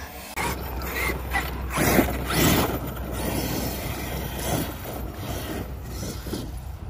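Arrma Kraton 8S electric RC monster truck driving, with rattling drivetrain and tyre noise, loudest about two seconds in.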